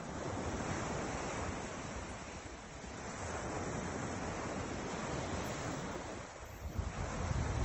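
Ocean surf washing in and ebbing in slow swells, with wind buffeting the microphone near the end.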